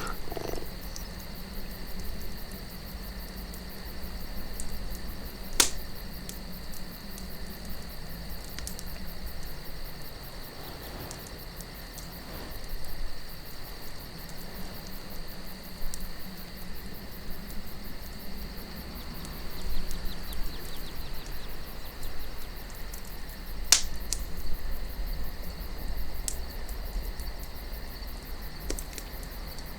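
Campfire crackling with scattered small snaps and two loud sharp pops, about six seconds in and near twenty-four seconds, over a steady chirring of crickets and a low rush of wind.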